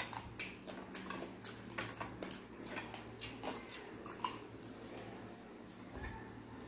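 Close mouth sounds of eating deep-fried pork leg and rice: irregular soft chewing clicks and lip smacks, a few a second, thinning out over the last two seconds. A steady low hum sits underneath.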